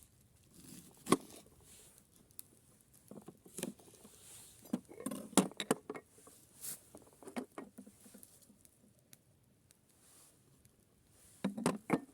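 Irregular light knocks, clicks and rustles, with the sharpest knock about a second in.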